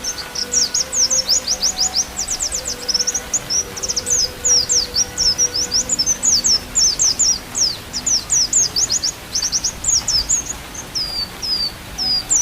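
Pleci (white-eye) singing: a fast, unbroken twittering of quick high notes, most of them falling in pitch, several a second.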